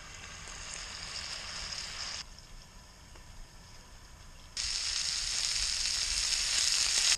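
Food frying on a camp stove: a sizzle for the first two seconds, a quieter stretch, then a louder sizzle of sausages browning in a cast-iron skillet from about four and a half seconds in.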